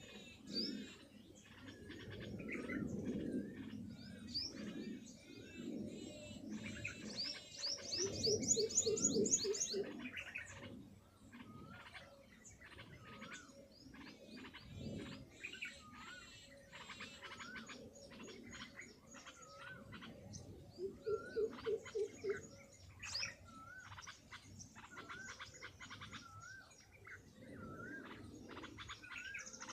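Many small birds chirping and twittering. Twice, a lower call of quick repeated pulses joins in.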